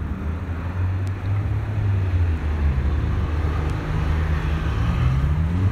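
A motor vehicle's engine running with a steady low hum over street traffic noise; near the end its pitch rises as it speeds up.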